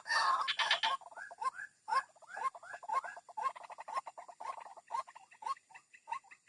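White-breasted waterhen calls, used as a lure sound: a loud harsh burst of calling in the first second, then a long run of short rising notes, about four a second.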